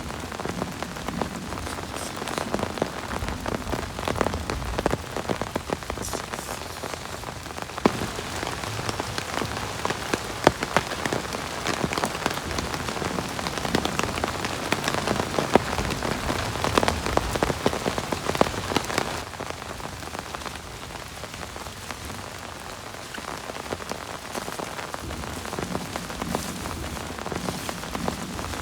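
Heavy rain falling steadily, a dense hiss full of individual drop hits, easing slightly about two-thirds of the way through.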